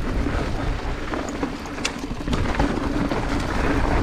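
Mountain bike descending a dirt and rock trail at speed: tyres crunching and skittering over the ground, with sharp knocks and rattles from the bike as it hits bumps.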